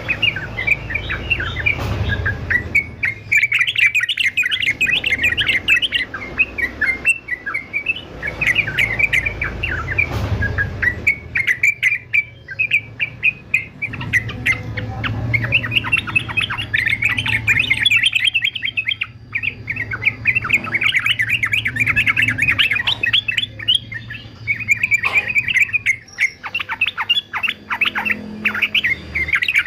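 Male yellow-vented bulbul (trucukan) singing: rapid, chattering phrases of a few seconds each, broken by short pauses, over a low hum.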